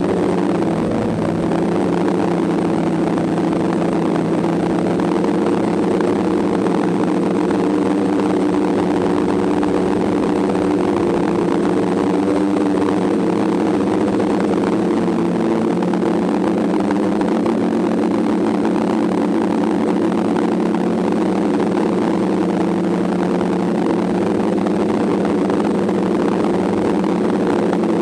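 DJI F550 hexacopter's six motors and propellers in flight, a steady drone buzz of several tones held at a nearly constant pitch.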